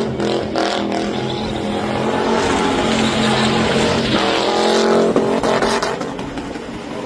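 Truck engine held at high revs during a burnout, with a steady engine note and a hiss of spinning tyres that swells about halfway through, then eases off near the end.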